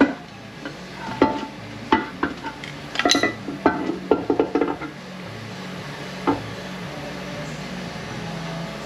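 Metal transmission parts clinking and knocking as they are handled during teardown of a GM 9T65E automatic transmission: a quick run of clicks and clinks over the first five seconds, then a single knock about six seconds in, over a steady low hum.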